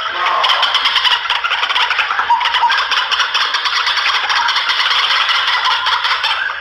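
White-breasted waterhen (ruak-ruak) calls played as a bird-hunting lure recording: a loud, unbroken run of rapid repeated notes.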